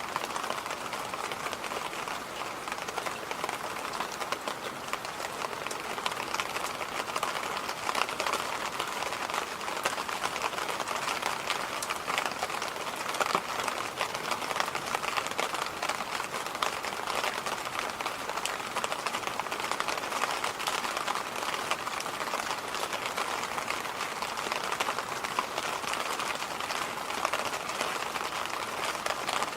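Electric fan running steadily: an even rushing of air with a stronger midrange hum and many fine, fast ticks through it.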